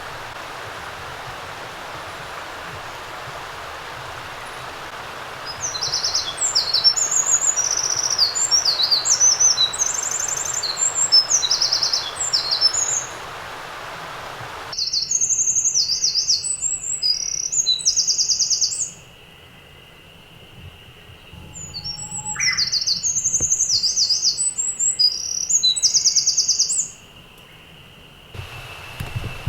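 A small songbird singing long, rapid, high-pitched trilling songs, three of them with short pauses between. A steady hiss lies behind the first song and cuts off abruptly about halfway through. A faint steady high tone lies behind the later songs.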